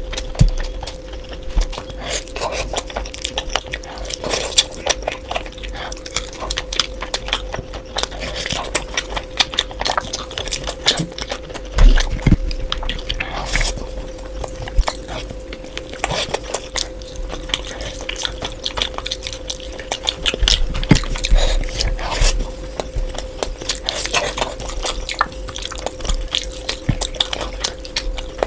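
A person chewing and biting into curry, with many small, irregular mouth clicks throughout and a faint steady tone underneath. There are a couple of low thumps about twelve and twenty-one seconds in.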